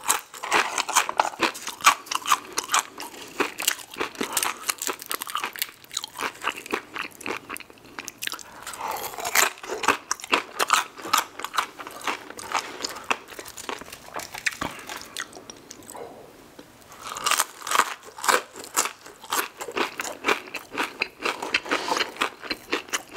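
Close-miked chewing and crunching of a cheeseburger and crispy fried fast food: a dense run of crunches and wet chewing, easing off briefly about two-thirds of the way through before picking up again.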